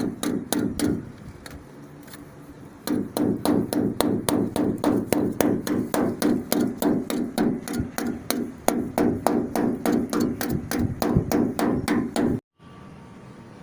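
Hammer striking a dented car body panel in quick, even blows, about four a second, each with a metallic ring: the panel is being knocked back into shape. There is a short pause about a second in, then the blows run on until they cut off near the end.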